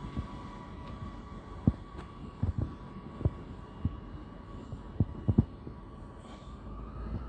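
Railway station platform background: a steady hum with a high tone, broken by about eight irregular low thumps spread over several seconds.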